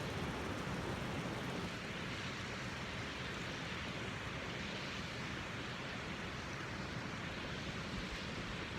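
Waterfall and mountain stream rushing steadily.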